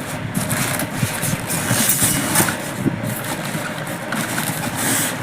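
Handling noises: irregular rustling and scraping as the new Canon Pixma G2010 printer is being opened up.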